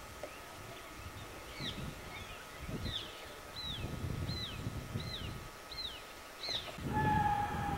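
A bird calling repeatedly outdoors, a series of short chirps that each drop sharply in pitch, about one every half second to a second, over a low background rumble. Near the end a steady, even tone comes in.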